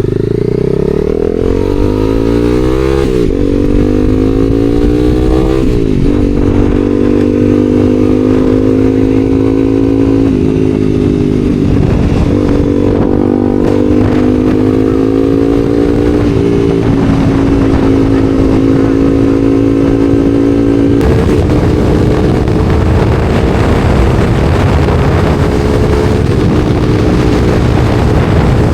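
Honda CBR300R's single-cylinder engine accelerating through the gears, its pitch climbing and then dropping at upshifts about three and six seconds in. It then cruises at a nearly steady engine speed, with wind rush growing over the last third.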